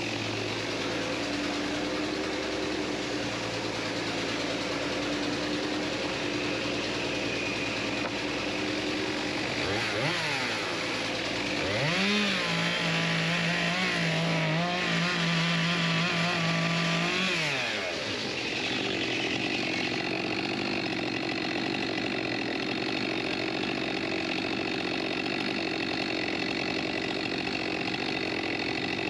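Chainsaw running, blipped briefly about ten seconds in, then brought up to full throttle and held for about five seconds before dropping back. A steady engine hum runs underneath throughout.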